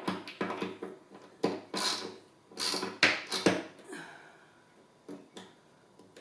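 Hand ratchet and screws being worked into the wooden frame of a table: irregular clicks and knocks with a few short scraping sounds.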